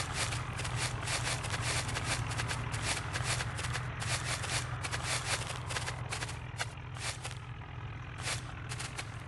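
An HMT tractor's engine running steadily, under a dense, irregular clatter of knocks and scuffs.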